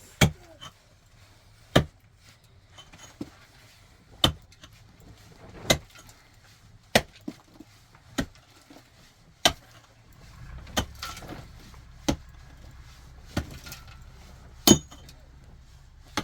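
A series of sharp knocks, about a dozen blows at a steady pace of roughly one every second and a half, as of something hard being struck repeatedly. A low steady rumble comes in about ten seconds in.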